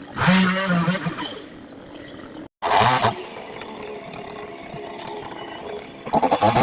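Chainsaw running at a steady pace, with a sudden drop to silence lasting a moment about two and a half seconds in.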